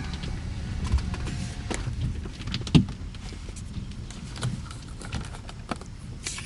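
Car moving slowly, a low rumble with scattered clicks and knocks, the loudest a sharp knock about three seconds in.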